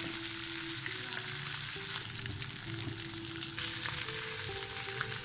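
Egg-coated potato kababs shallow-frying in hot oil in a nonstick pan: a steady sizzle, with light spatula sounds as the kababs, fried golden brown on both sides, are lifted out of the oil.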